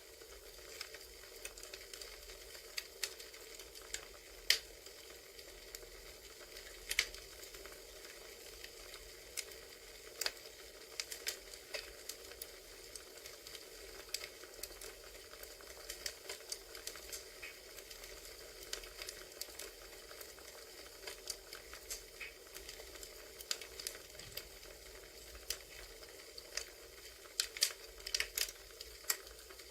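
Campfire crackling: a steady hiss of burning wood with irregular pops and snaps from the logs, a few louder pops near the end.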